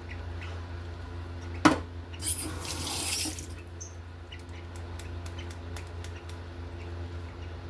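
A sharp knock, then water running from a tap for about a second before it is shut off.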